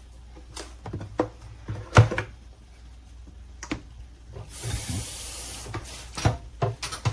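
Kitchen handling noises: a series of knocks and clicks, the loudest about two seconds in, with a hiss lasting about a second a little past the middle.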